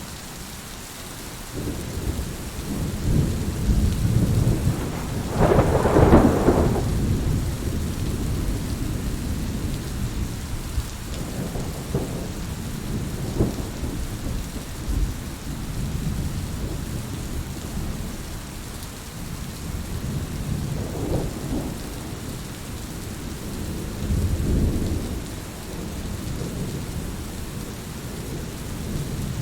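Heavy rain falling steadily in a thunderstorm, with rolling thunder: the loudest peal comes about six seconds in, and fainter rumbles follow several times.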